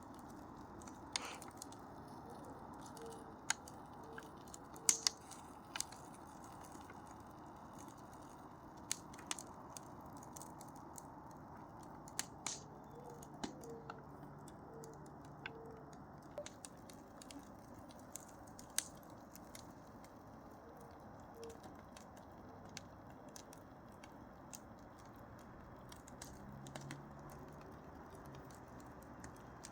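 Wood fire crackling slowly: sparse, irregular sharp pops and snaps, often a second or more apart, over a faint steady hiss.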